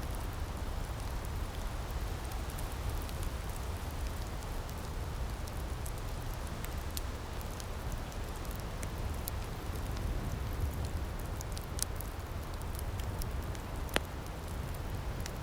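Wood fire in an outdoor firepit crackling, with scattered sharp pops over a steady low rushing hiss and one louder pop near the end.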